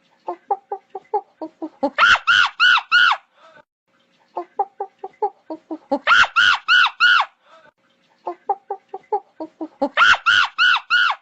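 Chicken calling in a repeated phrase: a quick run of short clucks leading into four loud, drawn-out calls. The phrase comes three times, about every four seconds.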